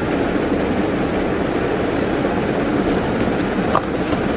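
Steady rumbling noise with no words, with a short click about four seconds in.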